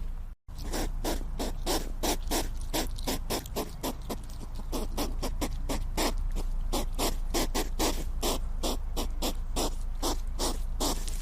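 Hedgehog snuffling, a quick run of short noisy puffs at about three a second, over a steady low hum. The sound breaks off for a moment shortly after the start, then the puffs resume and carry on without pause.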